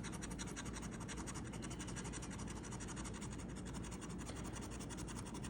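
Coin scratching the coating off a scratch-off lottery ticket: a steady run of rapid, fine scraping strokes.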